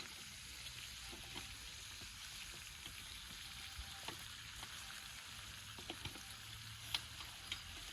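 Sliced meat sizzling in a pan over a campfire: a soft, steady hiss with a few sharp pops.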